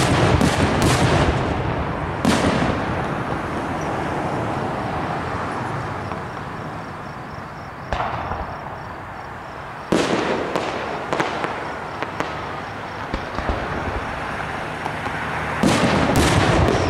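Aerial firework shells bursting overhead: sharp bangs, several in quick succession near the start, more around the middle and a pair near the end, each trailing off into a long rumbling echo.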